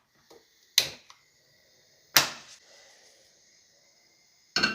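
Three sharp knocks of cookware being handled and set down, the loudest about two seconds in, followed by a faint steady hiss.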